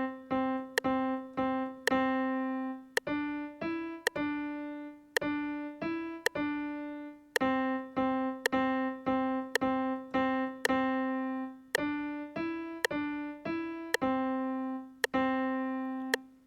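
Piano playing a simple beginner melody on C, D and E around middle C: runs of repeated Cs, then D–E–D figures, one note about every second. Metronome clicks keep the beat, and the last note rings out near the end.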